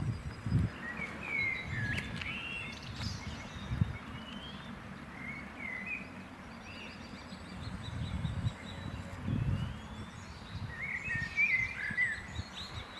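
Small birds chirping in short bursts of song, a few seconds apart, with a strong flurry near the end, over an irregular low rumble.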